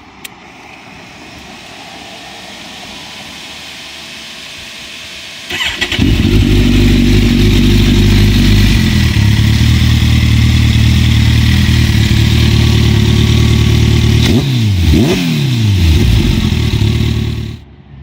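A 2015 Kawasaki ZX-14R's inline-four, warm, running through a Hindle Super Sport exhaust. It starts about five and a half seconds in and idles loudly and steadily. Two quick throttle blips come about a second apart, then the engine is shut off shortly before the end.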